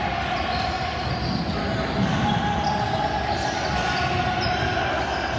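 Gym sound of a basketball game in progress: a basketball bouncing on the court amid indistinct voices of players and spectators, echoing in the hall.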